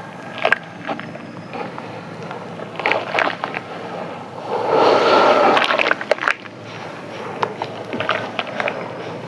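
Soft clay chunks crumbling in water: scattered crisp crackles and clicks, with a denser, louder crumbling rush about five seconds in.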